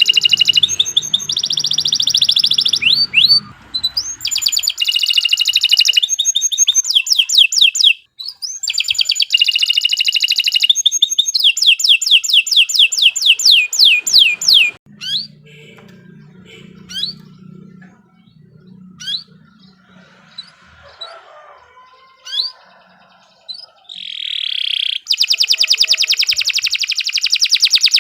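A domestic canary in full song, giving long loud bouts of fast rolling trills and rapid repeated notes. About halfway through the song breaks off to a few scattered chirps, then a loud rapid trill starts again near the end.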